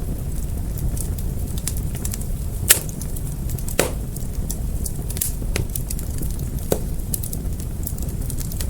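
Fire crackling over a steady low rush of flames, with many small ticks and three louder pops, the loudest about two and a half seconds in.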